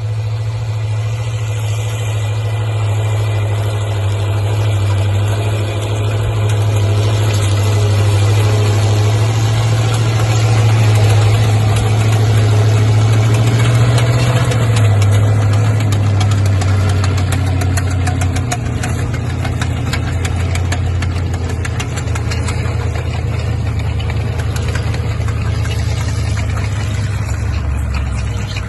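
Linn tractor's engine running steadily. Its low note drops slightly about halfway through and eases off in loudness after about two-thirds of the way.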